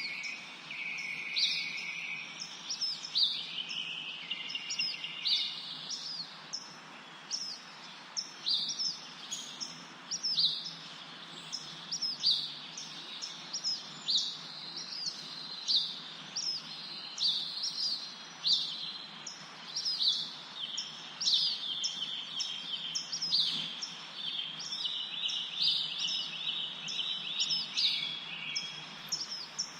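Several small birds chirping and twittering continuously in quick, high, sweeping notes over a faint steady background hiss.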